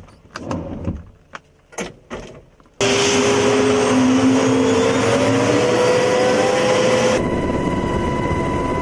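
A few sharp metallic clicks and knocks from handling an M240H machine gun. Then a sudden cut to the loud, steady noise of a helicopter's turbine engines with a whine slowly rising in pitch. About seven seconds in, this changes abruptly to a steady run with fixed tones.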